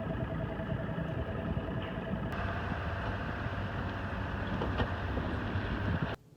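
A bass boat's outboard motor running at low speed as the boat is driven onto its trailer: a steady engine hum with a low rumble and a held tone. It cuts off suddenly near the end.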